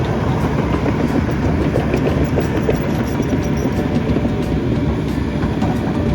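Hydraulic excavator's engine running steadily under working load, with faint scattered clicks.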